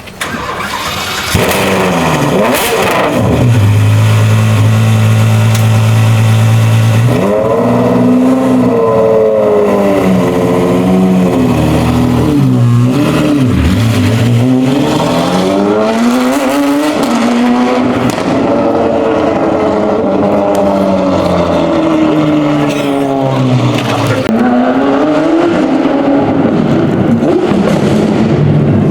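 A sports car's engine revving loudly. The revs climb in the first couple of seconds and hold steady for a few seconds. Then they rise and fall again and again.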